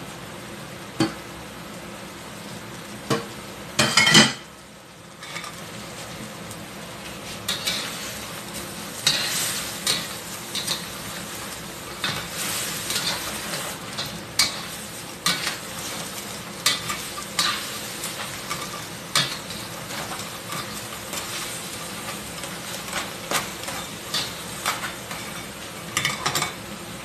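Crabs sizzling in hot oil in a stainless steel wok as they are stir-fried and tossed, with the shells clattering against the pan in frequent sharp knocks. A loud clatter comes about four seconds in, and the sizzle briefly drops after it.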